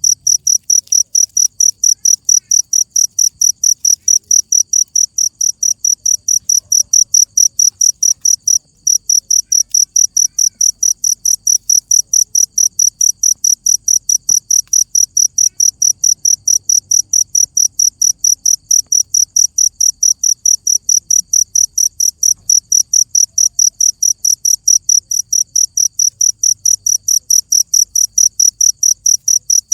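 A cricket chirping steadily, about three high-pitched chirps a second, with one brief break about nine seconds in.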